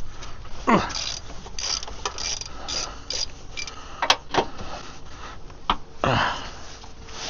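Hand tools working on a car's suspension and gearbox fixings: irregular metallic clicks and ratchet-like ticking, with two louder sweeping noises, one about a second in and one near six seconds.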